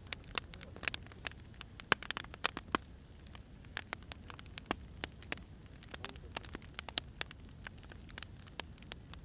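Firewood burning, crackling with irregular sharp pops and snaps over a low rumble of the fire.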